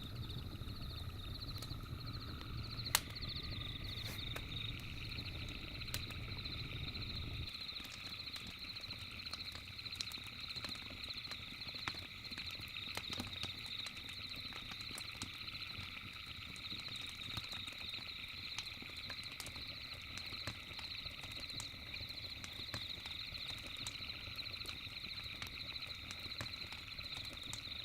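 Campfire crackling in scattered sharp pops, one louder about three seconds in, over a steady chorus of night insects chirping in fast pulsing high tones. A low rumble underneath stops about seven and a half seconds in.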